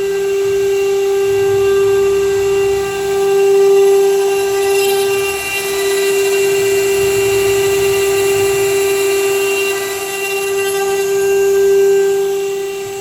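CNC engraving router's spindle running with a steady whine, its loudness rising and falling several times.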